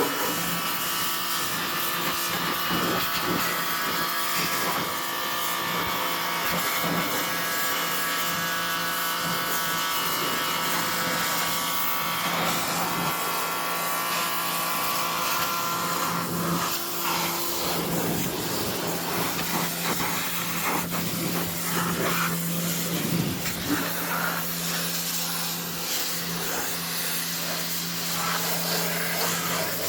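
Electric pressure washer running steadily, its motor humming under the hiss of the water spray.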